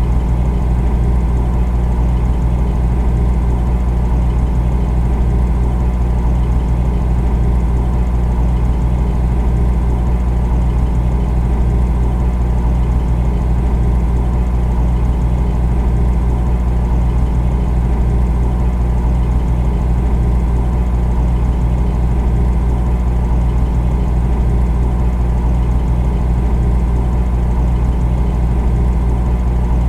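Refrigerator running with a steady low hum and a fainter buzz above it.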